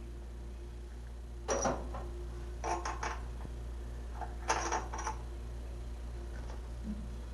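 Metal parts and hand tools clinking in three short clusters over a steady low hum, as a fan spacer is fitted to a race car's water pump.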